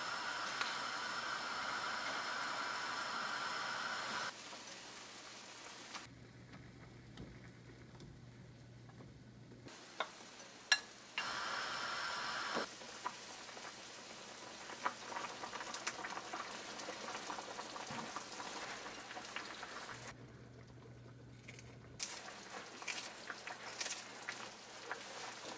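Kitchen cooking sounds in short edited takes: food cooking on the stove with a steady hiss, broken by quieter stretches with a low hum and by scattered light clicks and taps of utensils.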